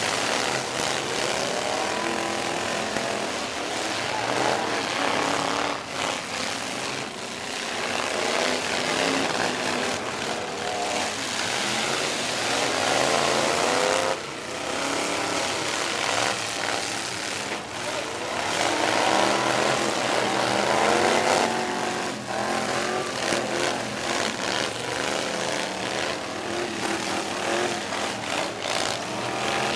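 Demolition derby trucks' engines revving hard and running at high speed, their pitch rising and falling over and over, with a few sharp knocks of metal on metal from collisions.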